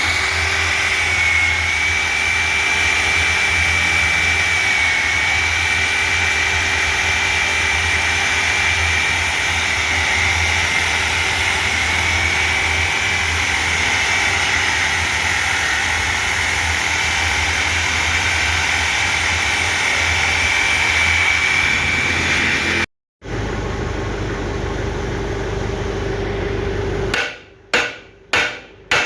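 A power tool running steadily with a high whine for about 23 seconds, cutting out abruptly, then running again with a lower hum. Near the end come sharp hammer blows, a little over one a second.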